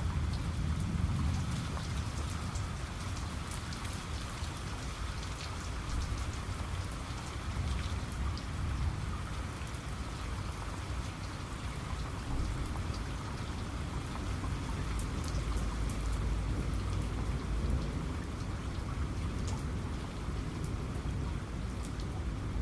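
Steady rain falling, with individual drops ticking sharply over an even hiss and a low, steady rumble underneath.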